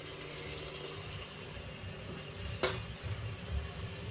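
Low steady sizzle of chicken masala cooking in a pot on a low flame, with a single light clink of cookware about two and a half seconds in.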